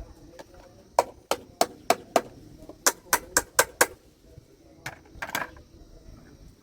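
A dozen sharp knocks in quick runs: five about a third of a second apart, five more after a short pause, then two near the end.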